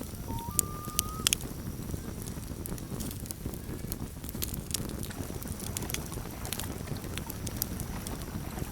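Campfire crackling with frequent sharp pops over a low steady rumble. About half a second in, a loon gives a short wail that steps up in pitch and holds for about a second.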